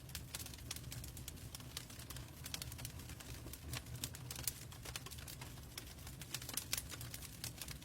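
Logs burning in a fireplace, crackling with many irregular pops and snaps over a low steady rumble.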